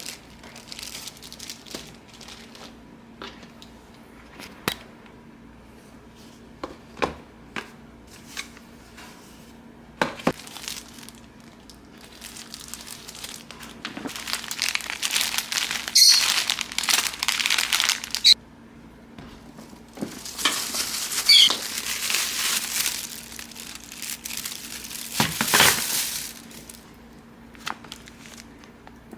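Crinkling and rustling of something being handled, in two long stretches in the second half, after scattered light clicks and knocks. A faint steady hum runs underneath.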